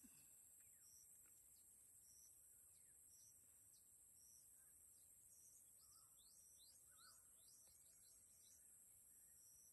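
Very faint birds chirping outdoors: many short, high chirps that drop in pitch, with a few lower calls about six and seven seconds in, over a steady high-pitched drone.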